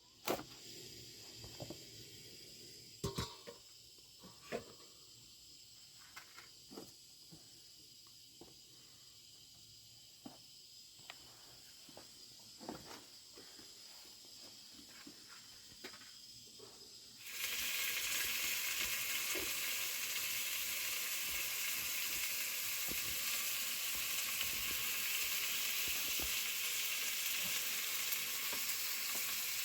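Scattered light clicks and knocks, then about two-thirds of the way in a loud steady sizzle starts suddenly, as of food going into hot oil, and keeps on frying.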